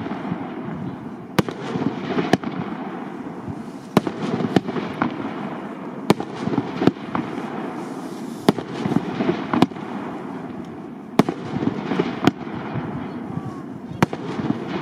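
SRPYRO Power King 48 mm firework battery (cake) firing: a sharp bang every second or two, with a noisy crackle and rumble in between.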